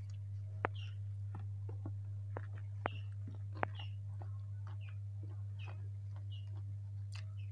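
Close-up chewing of hand-eaten fried rice: moist mouth smacks and clicks at an uneven pace, with three sharper clicks in the first half. A steady low hum runs underneath.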